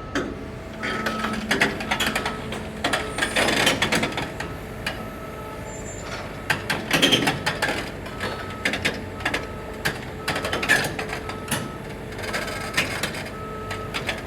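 A backup alarm beeping about once a second, over repeated metallic clanks and squeals from a tracked excavator's steel tracks and undercarriage as it travels.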